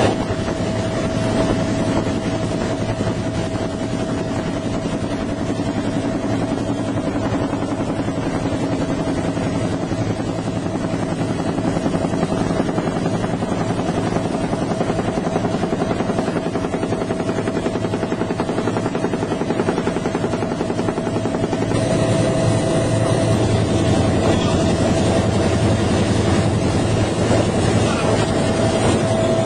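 UH-1H Huey helicopter running steadily, its rotor and turbine giving a continuous low rumble with a steady whine. About three-quarters of the way through, the sound changes abruptly and the rumble and whine grow stronger.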